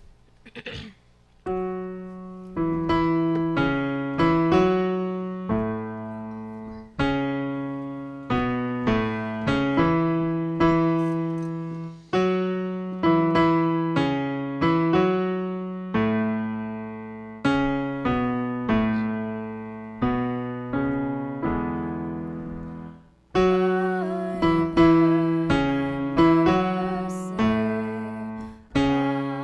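Slow piano music: chords struck one after another and left to ring and fade, starting about a second and a half in.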